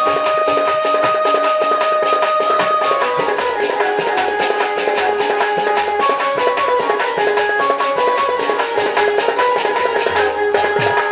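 Instrumental Sambalpuri folk music for a danda dance: a fast, steady drum beat under a melody of held notes that step up and down.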